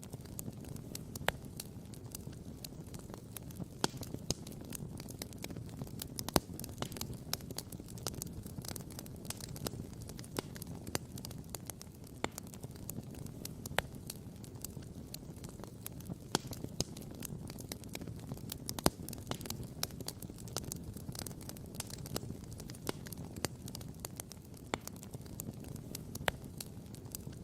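Wood fire crackling and popping, with many irregular sharp snaps over a steady low rumble.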